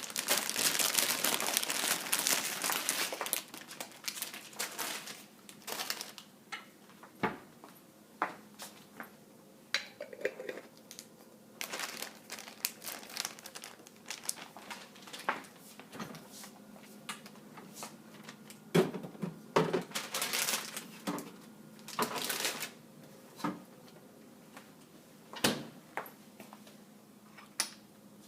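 Kitchen clean-up: packaging crinkles for the first few seconds, then scattered clinks and knocks of dishes and utensils being handled and put away.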